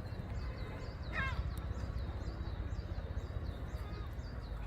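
Birds calling: a steady run of short, high chirps about three a second, with one louder call about a second in that steps down in pitch, over a constant low rumble.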